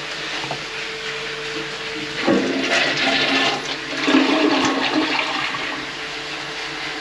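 Toilet flushing: a rush of water starts about two seconds in, peaks, then eases off. A steady hum runs underneath.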